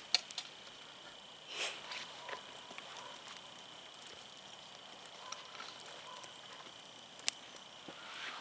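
Wood campfire crackling: scattered sharp pops, the loudest just after the start and another about seven seconds in, with a longer hissing crackle about a second and a half in.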